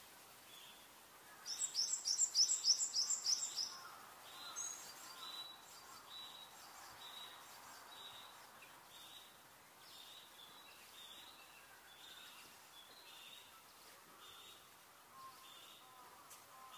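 Forest birds calling: a quick, loud run of about eight high, falling notes near the start, then a soft high chirp repeated about once a second over a faint background hiss.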